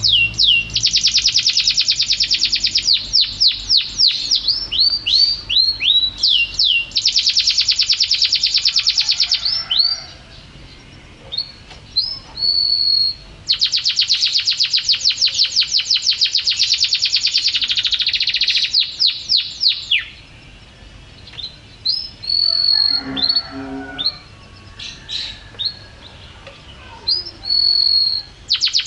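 Canary song: long, very rapid high trills alternating with falling sweeping notes and short clear whistles, with pauses between phrases.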